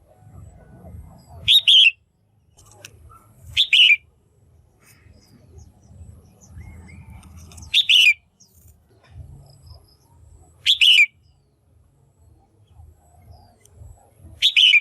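Red-whiskered bulbul calling: five short, bright calls spaced a few seconds apart, over a low background rumble. It is a female's call of the kind used to stir up a male or to pair birds.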